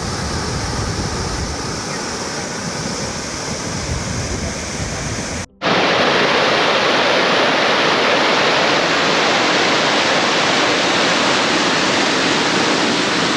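Waterfall rushing: a steady heavy wash of falling water. It drops out briefly about five seconds in and comes back louder and brighter.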